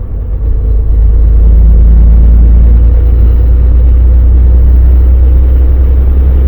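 Volvo VNL semi truck's diesel engine running under way, a steady deep rumble with road noise, growing a little louder in the first second.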